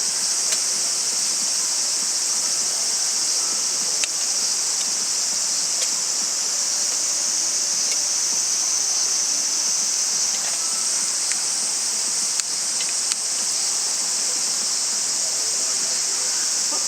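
Steady high-pitched insect chorus, a continuous hiss-like drone, with a few faint sharp clicks scattered through it.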